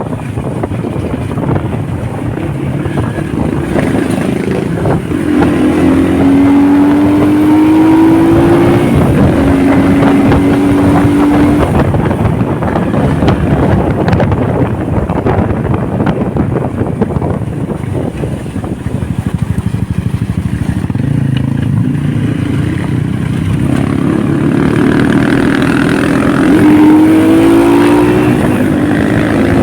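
Motorcycle engine running under way, with wind rushing past. The engine pitch rises as it accelerates about five seconds in, drops at a shift, and rises again near the end.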